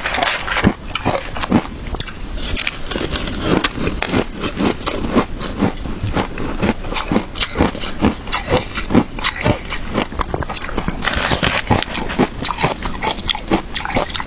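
Shaved ice being bitten and chewed, a steady run of crisp crunches and crackles, several a second.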